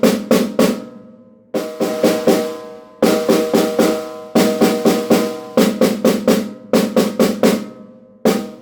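Snare drum played unmuffled, without its muffling ring: runs of sharp strokes about three to four a second, broken by short pauses. Every hit rings on with clear sustained tones.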